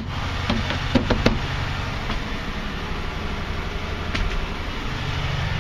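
A 1979 Jeep CJ-5's AMC 304 V8 with aftermarket dual exhaust idling steadily, with a few sharp clicks or knocks about a second in.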